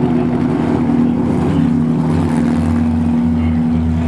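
Race car engines running at high revs during a heat race, a loud steady drone, with a slight change in pitch about a second and a half in.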